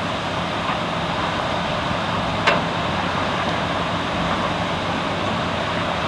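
Excavator's diesel engine running steadily over the constant rush of floodwater pouring across a broken concrete path, with one sharp knock about two and a half seconds in.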